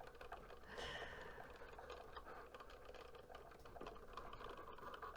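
Cricut Joy cutting machine at work, faint: a steady motor hum with many small ticks as the blade carriage moves and cuts an infusible ink sheet.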